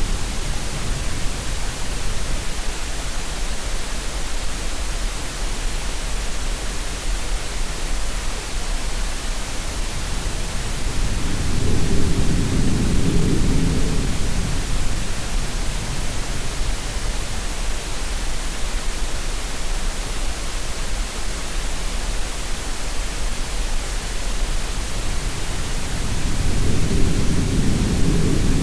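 Steady, even hiss of green noise layered with sea waves. A low wave swell rises and falls about twelve seconds in, and another builds near the end.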